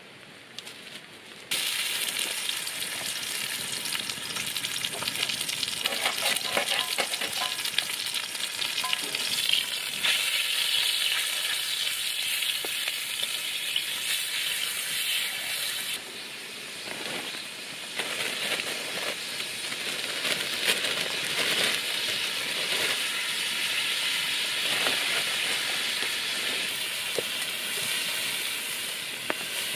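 Stir-fry sizzling hard in a wok over a wood fire as meat and bean sprouts are stirred and tossed. It starts suddenly about a second and a half in, after a quieter patter.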